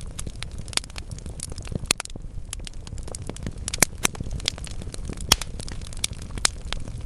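Wood fire burning in a fireplace: logs crackling with irregular sharp pops over a low rumble of flames, a few pops standing out louder.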